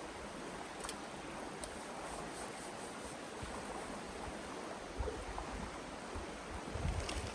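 A river running: a steady rush of flowing water, with a few faint clicks and some low bumps in the second half.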